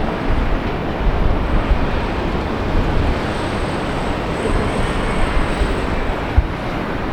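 Jet airliner engine noise, a steady dense rumble with a faint high whine in the middle, with gusts of wind buffeting the microphone.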